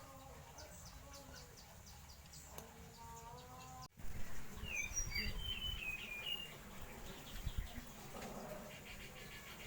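Small birds chirping: quick, short, high chirps repeated several times a second at first. After an abrupt cut about four seconds in, a run of varied, falling chirps sounds over a low rumbling noise.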